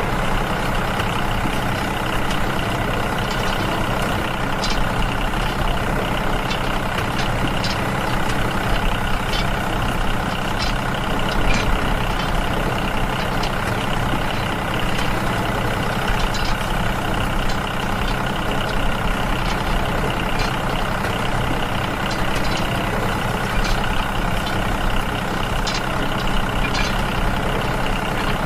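Small engine of a homemade mini tractor running steadily, with scattered light clicks over it.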